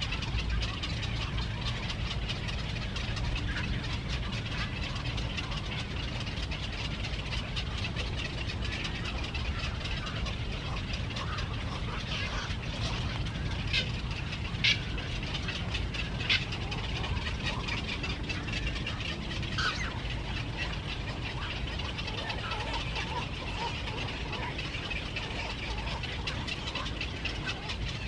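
Birds chirping in many short, high calls over a steady low rumble, with two louder sharp chirps near the middle.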